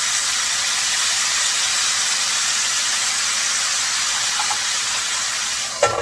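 Whole chicken legs sizzling hard in a hot stainless skillet of oil and soy sauce, a loud steady hiss with the pan flaring up. Near the end a metal lid clanks onto the skillet and the sizzle drops to a muffled hiss.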